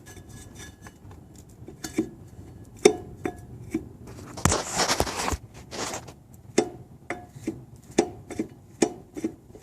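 Metal clicks and clinks of loose flywheel bolts being worked out by hand and handled, a dozen or so sharp contacts, some with a brief ring. The bolts were loose enough to come out by hand, never torqued, and this is what caused the bottom-end knock.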